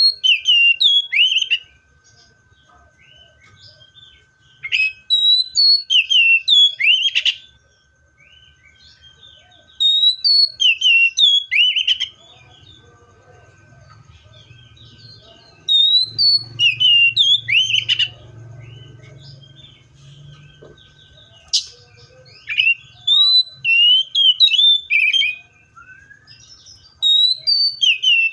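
Seychelles magpie-robin singing loud phrases of quick rising and falling whistled notes. Each phrase lasts about two seconds, and they come every few seconds with short pauses between. A faint steady high tone runs underneath.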